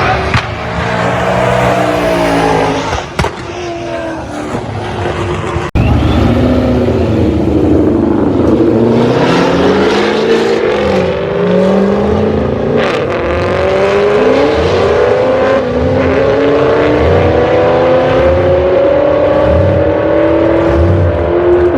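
Drag-racing car engine at high power: revving up and down for a few seconds, then after a sudden cut it pulls hard, its pitch climbing with a few steps along the way.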